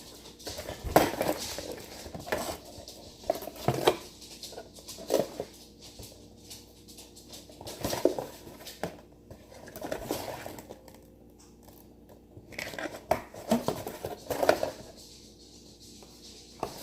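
Slime kit packaging being unpacked by hand: plastic crinkling and rustling, with scattered clicks and knocks as items are handled and set down.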